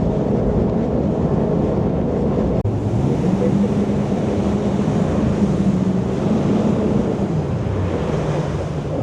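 Jet boat under way on the river: its engine runs steadily, the pitch climbing a few seconds in and easing off near the end, over the rush of water and wind buffeting the microphone.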